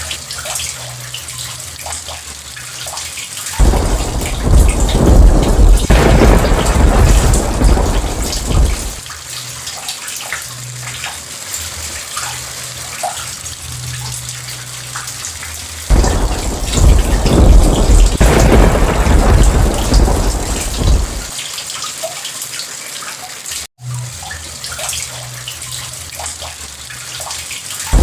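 Steady heavy rain with two long, deep rolls of thunder, each starting abruptly, about four seconds in and again about sixteen seconds in, each lasting about five seconds. The sound drops out for an instant a few seconds before the end.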